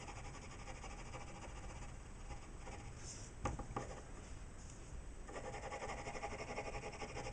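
Faint scratching of a woodless graphite pencil shading on Bristol vellum paper, with two small clicks about three and a half seconds in.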